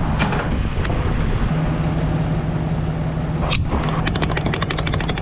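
A vehicle's motor running steadily with a low hum. A fast, even run of ticks comes in over the last second and a half.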